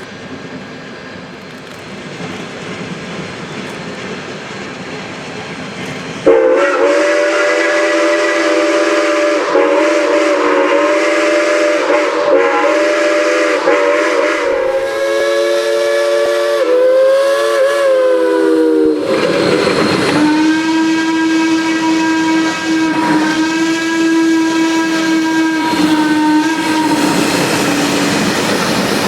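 Steam locomotive whistles blowing. A steady hiss comes first; from about six seconds in, a multi-note chime whistle sounds a long, wavering blast that bends in pitch near the middle. After a short break, a lower single-note whistle holds a steady tone until near the end.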